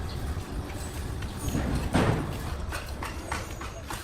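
Sawmill machinery running with a steady low rumble and irregular knocks and clatter, the loudest knock about halfway through.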